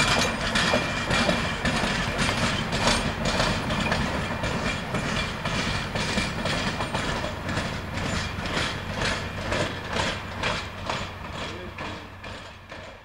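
Caravelle X4500 diesel railcar running away over jointed track: its wheels click rhythmically over the rail joints above a low steady engine hum, the sound fading as it recedes until it has almost died away near the end.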